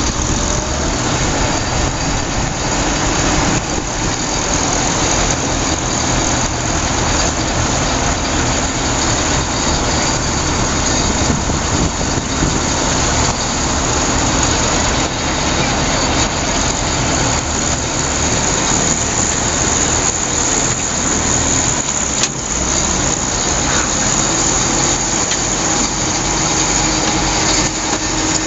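Volkswagen Schwimmwagen Typ 166's air-cooled flat-four engine running steadily, driving the amphibian through the water, heard from inside its open hull. A single brief click about two-thirds of the way through.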